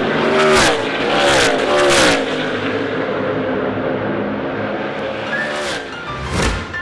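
NASCAR stock cars running past at racing speed, their V8 engine notes falling in pitch as they go by, several in quick succession early on and another near the end.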